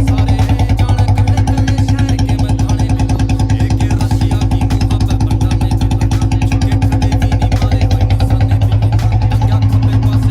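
Royal Enfield Classic BS6 single-cylinder engine idling through a free-flow C-band exhaust pipe, a steady, even thump about eight or nine beats a second.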